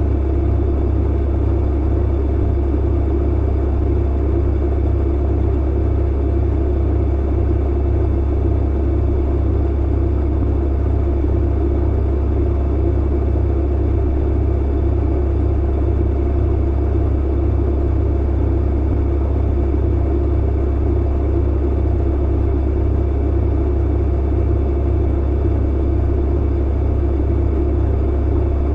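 Clothes dryer running: a steady deep hum under an even rushing noise, unchanging throughout.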